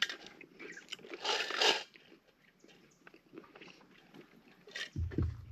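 Close-up biting and chewing of crunchy nacho chips, with one loud crunch a little over a second in and a low thump near the end.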